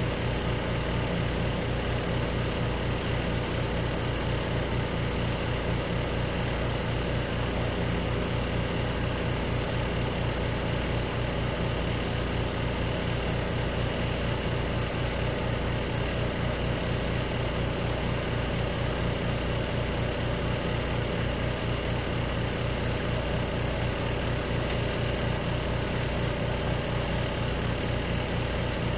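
Compact washing machine running steadily near the end of its cycle, with a fast low pulsing hum, mixed with a room fan.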